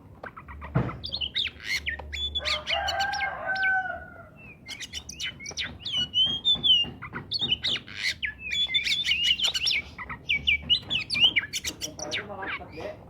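Oriental magpie-robin (kacer) singing vigorously: a rapid, varied run of high whistles, chirps and sharp clicks. A lower, drawn-out call is heard about two to four seconds in.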